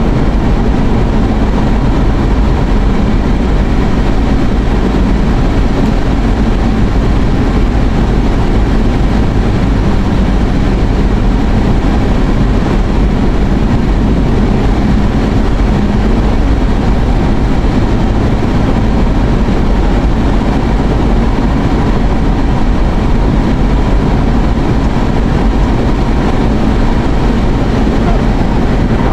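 Steady rumble and rush of a car driving, heard from inside the cabin, with no change throughout.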